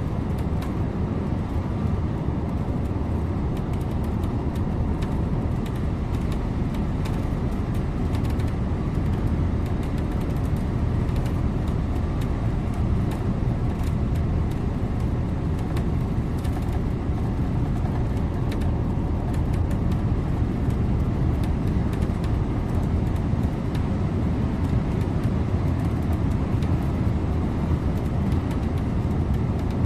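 Scania InterLink bus driving at a steady speed, its engine and tyre and road noise running steadily, getting a little louder about two-thirds of the way through.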